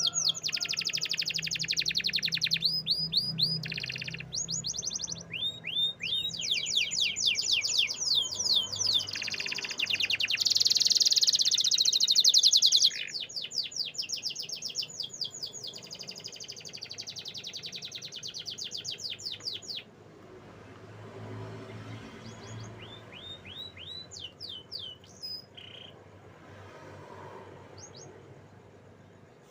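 Canary singing: fast trills and runs of rapidly repeated high chirps, loudest in the first half, then dropping to softer, sparser phrases for the last third.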